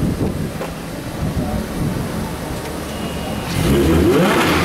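Rumbling wind and street noise, then a car engine rising in pitch and getting louder about three and a half seconds in as the car accelerates.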